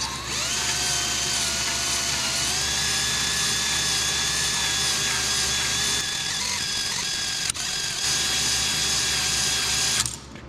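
Drill spinning a cylinder hone in the bore of a Kohler K241 single-cylinder engine: a steady motor whine that shifts slightly in pitch a couple of seconds in and stops abruptly near the end.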